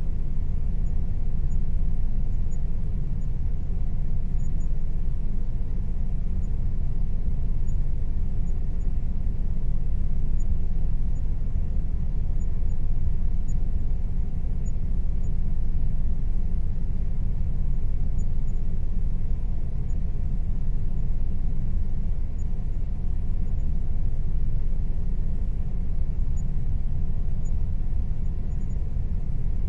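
Air conditioner running steadily: a constant low rumble with a faint, even hum tone above it.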